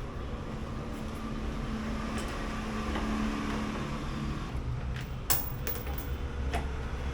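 A few sharp clicks and knocks of plastic motorcycle body panels being handled and fitted, a little after five seconds in and again near six and a half, over a steady low background rumble.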